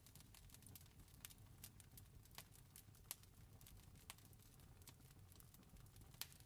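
A campfire crackling faintly: irregular sharp pops and snaps of burning wood over a low, steady rumble of the flames.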